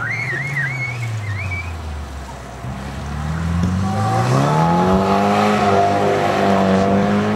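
Modified early Toyota Corolla's four-cylinder engine driven hard around a cone course. A short wavering tyre squeal comes near the start as the revs fall away. From about three seconds in, the engine revs climb and hold high as it accelerates.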